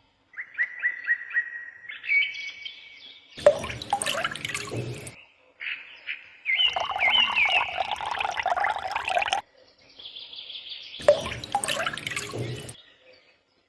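Bird-like chirping in short, abruptly cut segments, with two bursts of broad rushing noise spliced in between.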